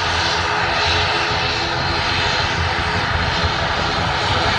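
Jet airliner engines: a loud, steady rush of noise with a thin steady whine running through it.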